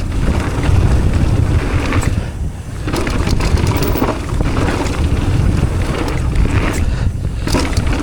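Wind rushing over an action camera's microphone during a mountain bike ride, mixed with tyres on dirt and short rattles from the bike.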